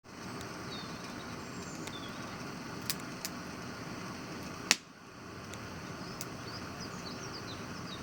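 Campfire burning with a steady crackling hiss and a few sharp pops of the wood, one much louder pop about two-thirds of the way through.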